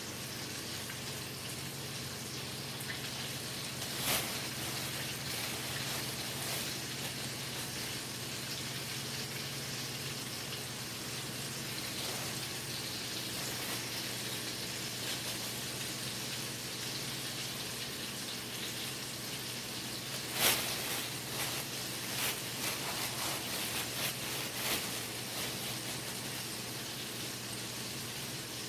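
Chicken legs deep-frying in hot grease: a steady sizzle over a low hum, with a few sharp clicks about four seconds in and a cluster of them around two-thirds of the way through.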